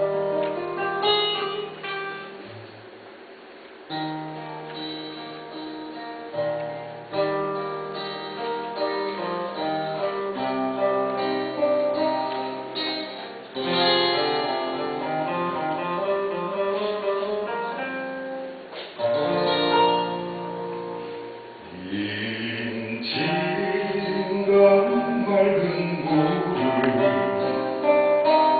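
Live acoustic band music led by acoustic guitar: a slow instrumental introduction of held chords and melody notes. About two-thirds of the way through, a lead melody line whose pitch bends comes in over the guitar.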